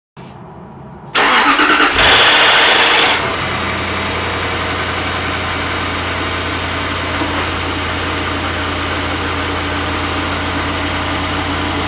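2004 Jaguar XK8 4.2-litre V8 starting from cold. The starter cranks it over about six times, then a very loud rattle breaks out as the engine catches and dies away within about a second as oil pressure comes up, leaving a steady idle. The rattle is the secondary timing chains slapping while their oil-pressure-fed tensioners are still slack, having leaked down after shut-off.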